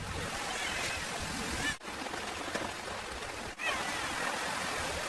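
Steady rushing of water, an even hiss, broken twice by brief dropouts where the audio cuts.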